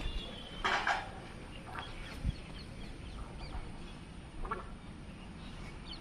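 Harsh, clucking bird calls, two close together about a second in and a weaker one later, with faint high chirps of smaller birds throughout.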